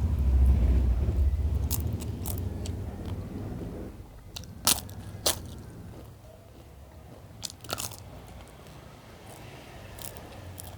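Close-miked chewing and biting of a mouthful of food, heavy and dense at first, then quieter, with a few sharp crunches through the middle.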